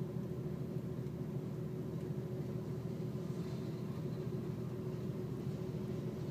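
Freight train cars rolling past a grade crossing, a steady low rumble without breaks.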